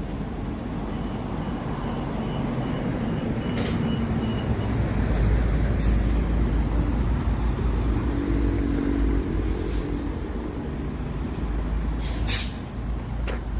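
Motor vehicles passing on the road, a deep rumble swelling about a third of the way in, with a short sharp hiss near the end.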